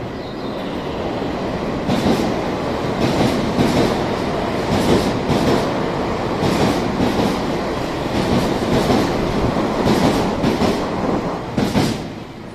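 Nankai 50000 series Rapi:t electric train passing slowly alongside the platform. Its wheels rumble and clack over the rail joints. The sound builds as the train comes in and falls away near the end as the last car goes by.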